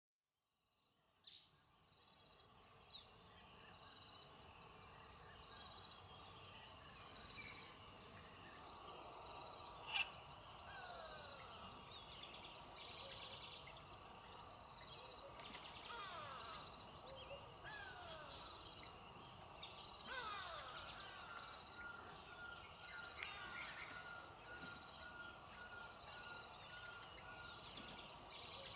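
Bush ambience: a steady high insect hiss and a fast, even insect trill, with several birds calling in descending whistles and, in the second half, a quick run of repeated notes. The sound fades in over the first few seconds.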